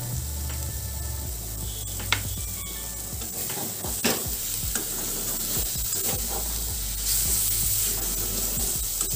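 Shapla (water lily) stems in mustard paste sizzling in a steel kadai over a high gas flame while a metal spatula stirs them, scraping and tapping against the pan, with sharper knocks about two and four seconds in.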